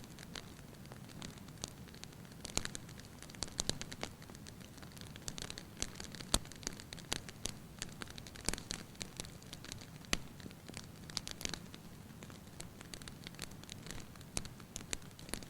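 Wood fire burning in an open fireplace: irregular sharp crackles and pops from the burning logs, a few louder snaps, over a low steady rumble of the flames.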